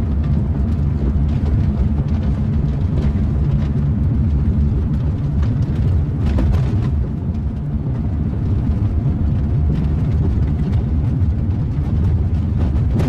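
Steady road and engine rumble inside a moving car's cabin, low and even throughout.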